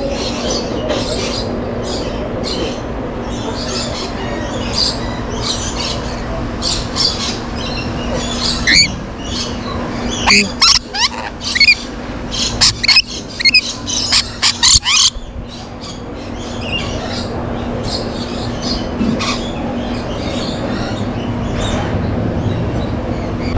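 Exotic aviary birds calling with many short, shrill screeches and squeaks, thickest and loudest in the middle, over a steady low hum.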